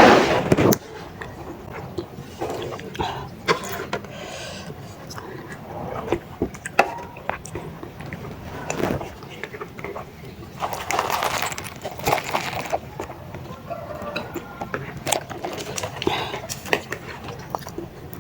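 Close-miked eating sounds of spicy baso aci in broth: chewing and mouth noises, with sharp clicks scattered through and a few short, louder noisy bursts, the loudest a little past the middle.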